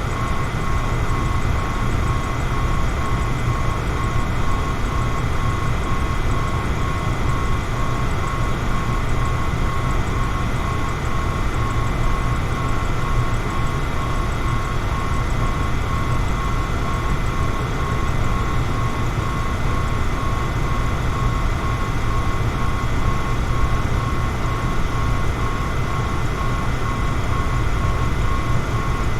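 Electric fan running steadily: an even rush of air with a low hum, and a thin steady whine above it.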